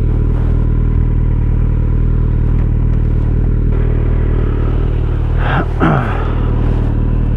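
Kawasaki Z900's inline-four engine idling steadily through an Akrapovic exhaust, with its dB killer still fitted.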